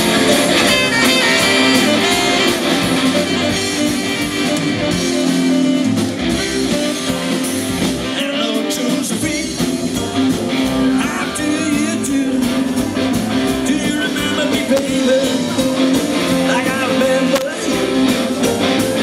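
Live rock band playing, with singing over guitar and drums.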